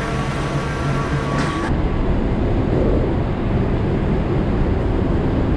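Steady low rumble of a vehicle in motion with a constant low hum. About a second and a half in, the sound changes abruptly: the high hiss and thin steady tones drop away, leaving the rumble.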